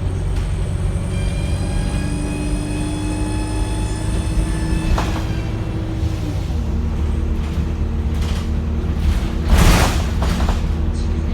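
Wright StreetLite single-deck bus under way, engine running. A high whine with many overtones sounds from about a second in until about six seconds, then stops as the engine note drops lower. A short, loud hiss comes near the end.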